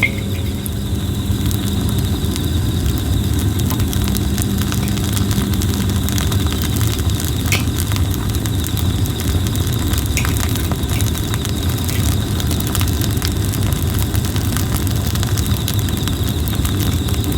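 Campfire of red plum wood burning in a metal fire pit: a steady low rush of flame with many small, irregular crackles and pops from the wood.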